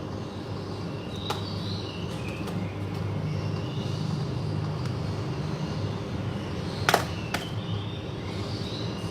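Oriental magpie-robin singing short whistled phrases over a steady low rumble, with a couple of sharp clicks about seven seconds in.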